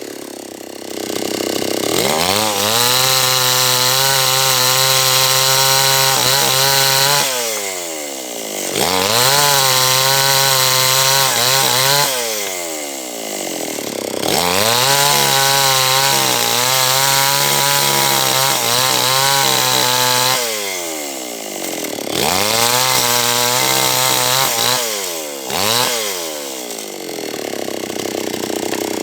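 H&L Pro 5800 two-stroke chainsaw run up to full throttle four times, held for several seconds each, with the pitch wavering slightly while held and falling back toward idle in between, as it cuts through a large teak log.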